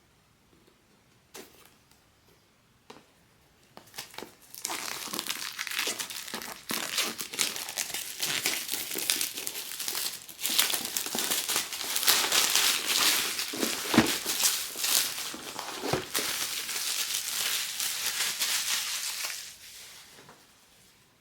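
Plastic blind-box packaging being unwrapped: a few light clicks, then about fifteen seconds of continuous crinkling and tearing of plastic wrap, with two soft knocks toward the end.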